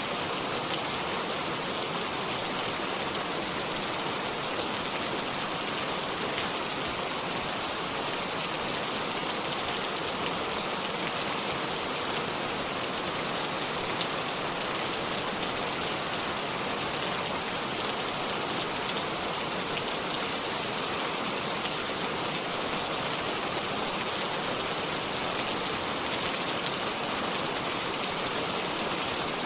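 Steady rainfall: an even hiss of rain with small scattered drop ticks.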